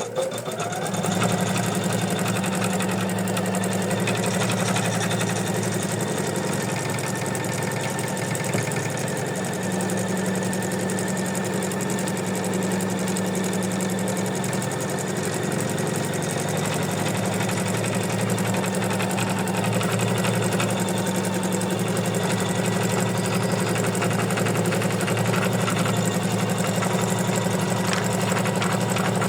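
Embroidery machine stitching down a piece of felt over ribbons, the tack-down stage of an in-the-hoop project. It speeds up in the first second, then runs at a fast, steady stitching rhythm.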